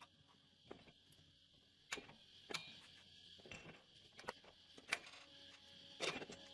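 Scattered light clicks and knocks, about half a dozen sharp taps a second or so apart, from metal engine parts and hand tools being handled during a motorcycle engine rebuild.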